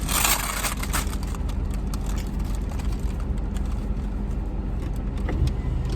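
Car engine idling steadily, heard from inside the cabin, with a brief rustle in the first second.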